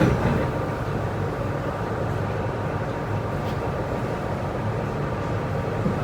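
Metro-Cammell electric multiple unit train on the MTR Tsuen Wan Line running between stations, a steady low rumble of wheels and running gear.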